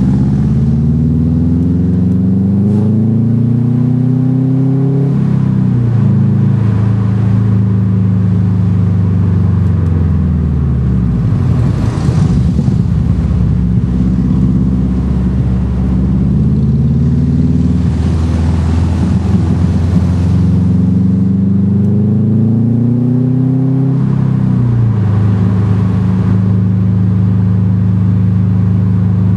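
Car engine heard from on board as it is driven through a run of bends, its note climbing under acceleration and falling back when the driver lifts off, over steady road and wind noise. The pitch drops sharply about five seconds in and again near the end, as it changes up a gear.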